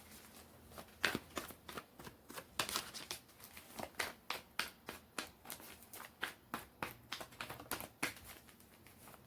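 Tarot deck being shuffled by hand: a quick run of crisp card snaps and rustles, two or three a second, starting about a second in.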